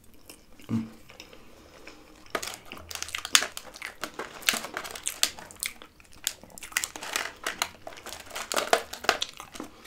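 Close-miked eating sounds: a mouthful of fries with Dutch beef stew being chewed. From about two seconds in there is a dense, irregular run of wet clicks and crackles, along with the fork picking at the fries in the dish.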